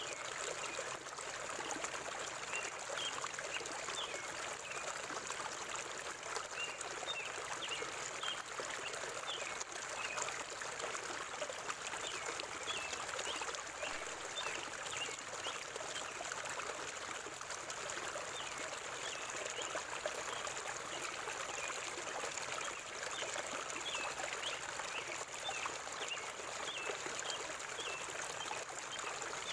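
River water flowing steadily, with short high bird chirps repeating many times throughout.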